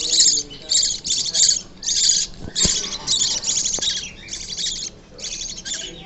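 Budgerigar chicks giving raspy, rattling begging calls, about two a second, as baby budgies do when asking to be fed.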